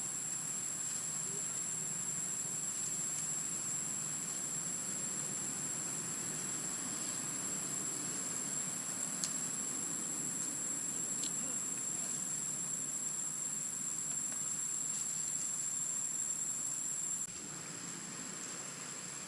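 Outdoor ambience dominated by a steady, high-pitched insect drone, typical of cicadas or crickets. Two brief high chirps come about halfway through, and the sound drops in level after a cut near the end.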